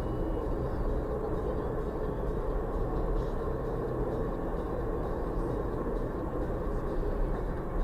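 A car driving: a steady rumble of engine and road noise, with no impact.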